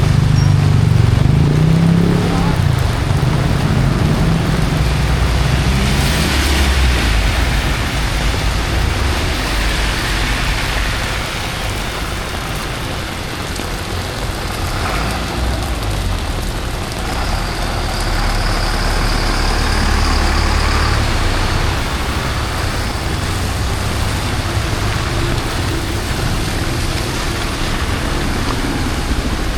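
Heavy rain hissing on a busy city street while traffic passes on the wet road, a heavy vehicle's engine rumbling close by at the start. A thin high whine sounds for a few seconds about halfway through.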